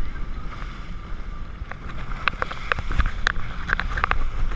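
Jet ski on open water: a steady low rumble with wind on the microphone. A run of short, sharp knocks starts about a second and a half in and comes thicker in the second half.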